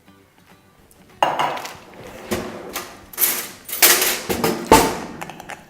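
A spoon scraping and clinking around a bowl, stirring dry spices into olive oil to make a hot chili sauce. There are about five rasping strokes, starting about a second in.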